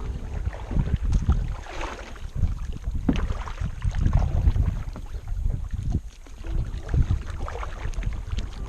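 Kayak paddle strokes dipping and splashing in the water in an uneven rhythm of roughly one stroke a second, over low wind rumble on the microphone.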